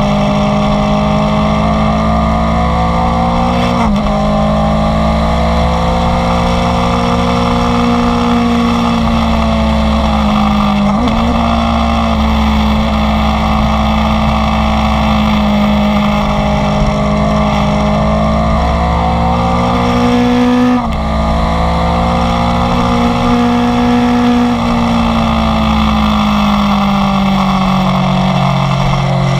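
Inline-four sport motorcycle engine under way, its note climbing steadily through the revs. It drops briefly at three gear changes before climbing again, and falls away near the end as the bike eases off.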